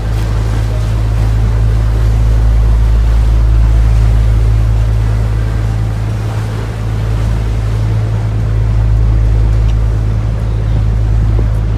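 Tour boat's engine running steadily with a deep, even hum, while the boat moves along the canal.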